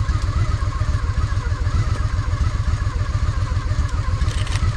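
Honda Shadow VT750's V-twin engine running steadily at low revs, its exhaust a steady low pulse with no revving.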